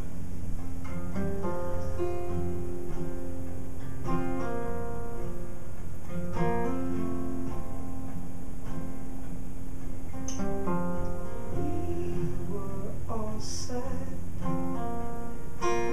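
Band music led by acoustic guitar: a mostly instrumental passage of the song with plucked and strummed chords changing every second or so.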